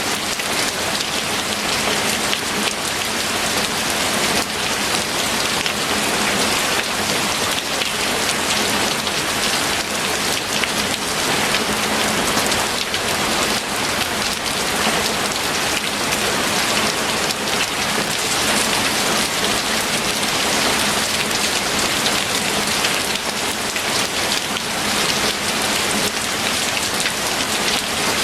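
Steady heavy rain falling on a surface, a dense continuous hiss of many drops with no pauses.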